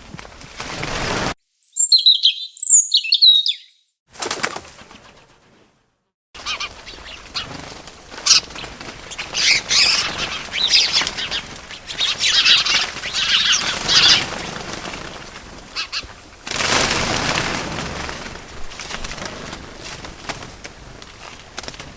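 A small bird chirping a few quick high notes about two seconds in, then bursts of wing flapping and rustling.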